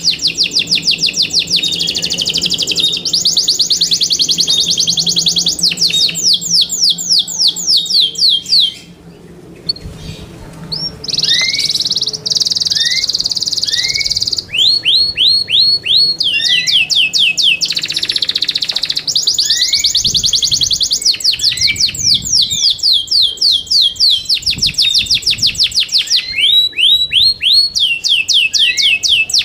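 Yorkshire canary singing: a long song of rolling trills, each phrase a fast, even run of high sweeping notes, changing from one trill to the next every few seconds, with a short pause about nine seconds in.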